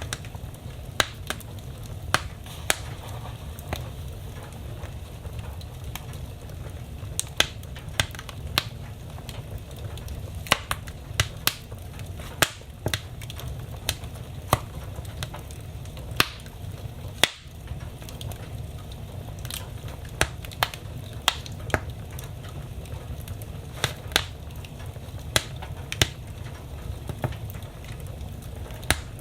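Wood fire burning in a fireplace: a steady low rumble of the flames with sharp, irregular crackles and pops of the burning logs, several a second at times.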